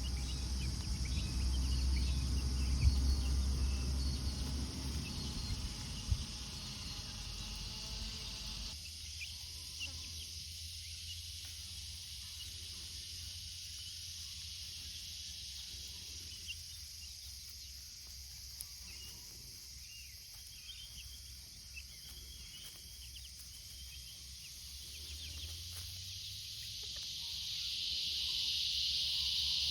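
Steady high insect drone with faint, scattered peeps from young chickens. A low rumble under it stops abruptly about nine seconds in, and the insect drone grows louder near the end.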